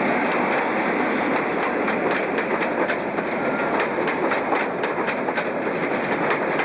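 InterCity 125 (HST) Mark 3 passenger coaches rolling slowly past. The steady rumble of the wheels has a regular clickety-clack as they cross the rail joints, becoming more distinct from about two seconds in.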